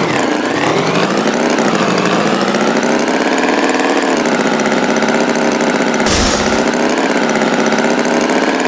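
Tractor engine running steadily, its pitch dipping and coming back up twice, with a brief hiss about six seconds in.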